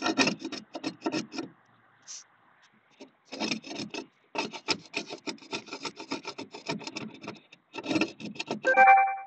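Rapid back-and-forth scraping or rubbing strokes on the boat's hull where a hole is being checked, in several bouts with short pauses. A brief squeak comes near the end.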